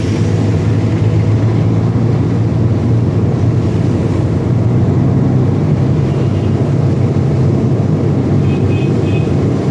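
Heavy truck engine running steadily, a loud low drone. A few short high-pitched beeps near the end.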